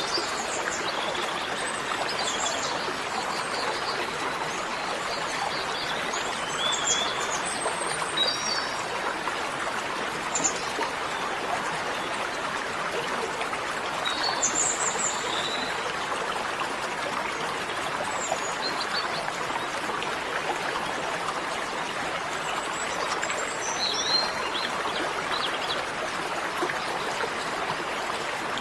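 Steady rushing of a stream with scattered short, high bird chirps throughout.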